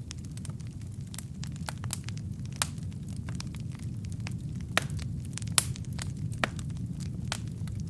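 Wood fire burning in a fireplace: a steady low rumble of the flames with irregular sharp crackles and pops from the burning logs, a few louder pops in the second half.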